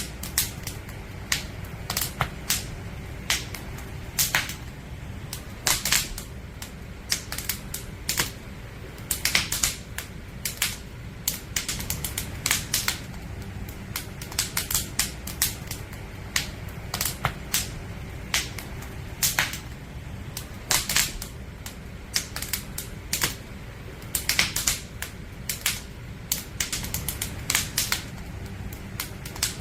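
Wood fire crackling: irregular sharp pops and snaps, often in quick clusters, over a steady low rumble.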